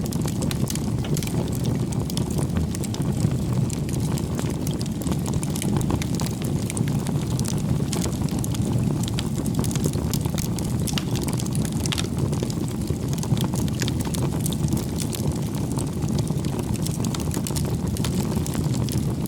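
Bonfire of firewood burning: a steady low rumble of flames with frequent small crackles and pops from the burning wood.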